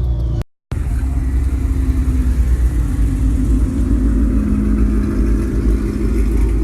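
Car engine running steadily with a deep low rumble, cut off by a brief total dropout about half a second in.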